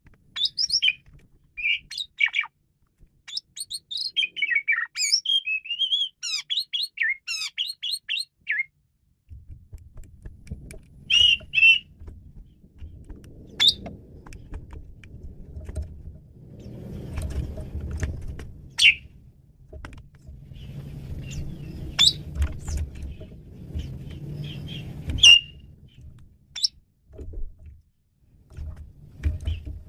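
Male jalak suren (pied starling) singing a fast, varied run of whistled and chattering notes. After about nine seconds the song breaks into scattered sharp calls over a low rumbling background noise.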